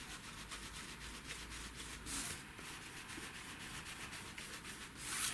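Faint rubbing of an ink applicator on card as alcohol ink is worked around the edges, with two short brushing swishes, about two seconds in and near the end.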